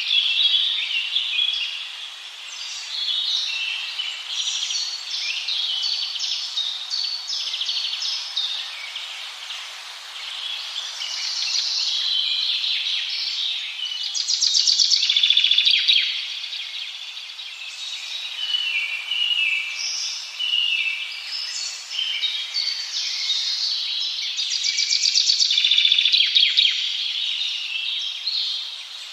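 Several songbirds singing at once in a dense chorus of overlapping chirps, whistled phrases and rapid trills.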